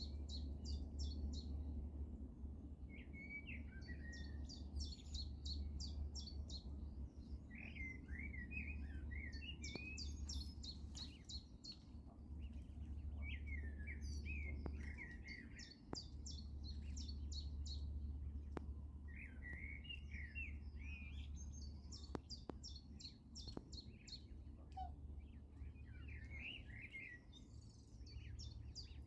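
Two songbirds singing. One repeats short, high, rapid-note phrases every few seconds, and the other answers with lower warbling phrases in between, over a steady low rumble.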